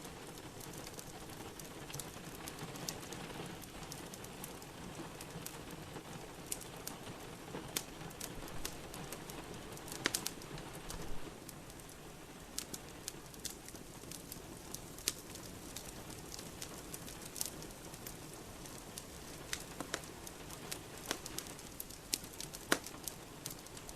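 Steady rain together with a wood fire crackling in a fireplace: a constant hiss of rain under scattered sharp pops and clicks, with a cluster of louder pops about ten seconds in.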